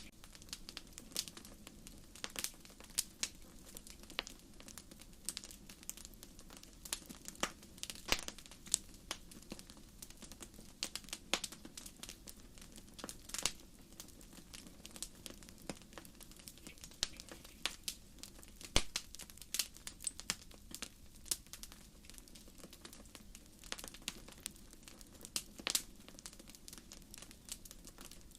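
Burning firewood crackling and popping in frequent, irregular sharp snaps over a soft, steady rush of flame.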